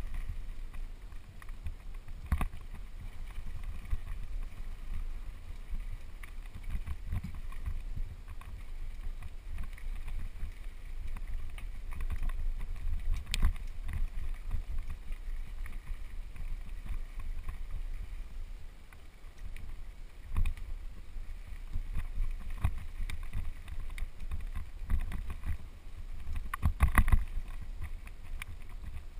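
Mountain bike rolling fast down a dirt trail: a steady low rumble of wind on the microphone, with sharp rattles and knocks from the bike over rough ground, the loudest cluster near the end.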